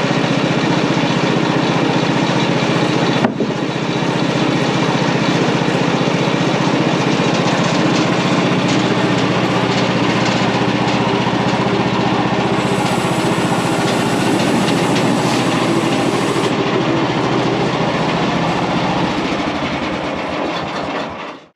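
Portable band sawmill running under load, its band blade cutting a wide American elm log close to the mill's full cutting width. There is a sharp click about three seconds in. Near the end the engine sound drops away and stops.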